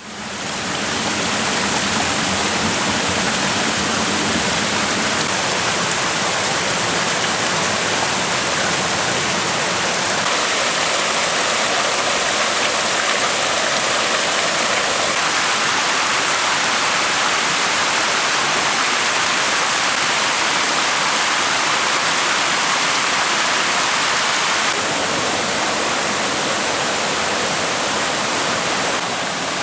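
Mountain stream rushing over rocks, a loud, steady rush of water that fades in over the first second.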